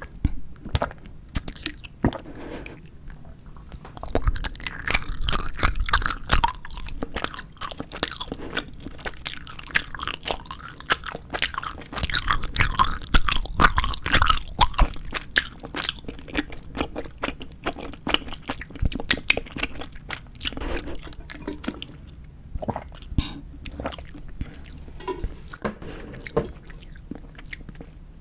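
Close-miked chewing and biting of 4D gummy jelly candies: a dense run of sharp, wet mouth clicks, busiest and loudest from about 4 to 15 seconds in, then sparser and softer.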